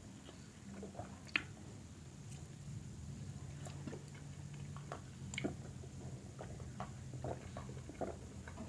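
A person chewing food with the mouth close to the microphone: soft wet squishes and scattered small mouth clicks. A faint steady low hum sits under the middle of it.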